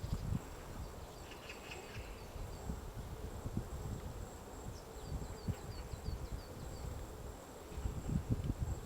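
White-backed woodpecker chiselling out a nest cavity in a tree: irregular dull taps and knocks, coming thicker near the end. Twice, a small bird's quick run of thin high notes sounds in the background.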